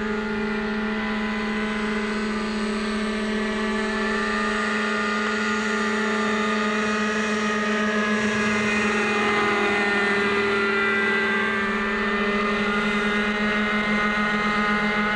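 Glow engine of a radio-controlled model helicopter running steadily in flight, a high-pitched buzz whose pitch wavers a little as the throttle and rotor load change.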